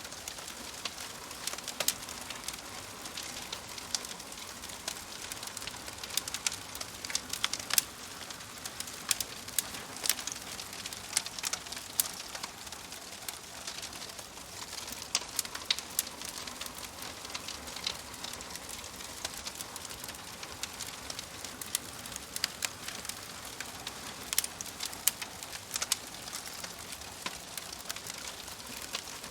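Wood fire crackling: a steady hiss with irregular sharp pops and snaps, several loud ones scattered throughout.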